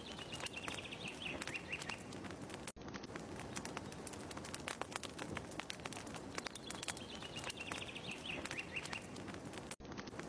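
Fireplace ambience: a wood fire crackling with many small pops, and a bird's descending trill once near the start and again near the end. It is a short loop that repeats about every seven seconds, with a brief dropout at each seam.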